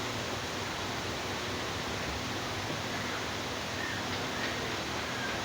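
Steady, even hiss of background noise with a faint low hum, nothing else standing out.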